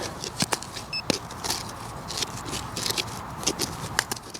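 Digging in soil: irregular scrapes, crunches and clicks of a tool working a hole, with one short high beep about a second in.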